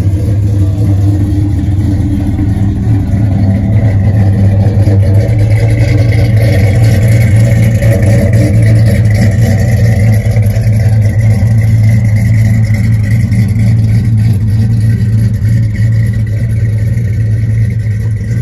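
1969 Dodge Dart Swinger's 340 cubic-inch small-block V8 running at a steady idle, its exhaust loud and even.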